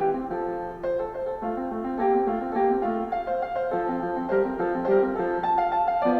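Background piano music: a melody line over a steadily moving accompaniment of lower notes.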